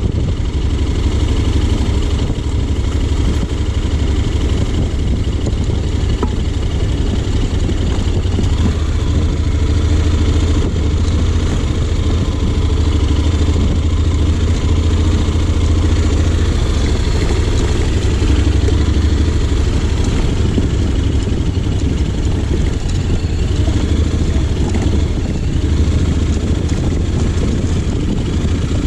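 Honda X-ADV 750's parallel-twin engine running steadily, with a deep low rumble and no sharp revving.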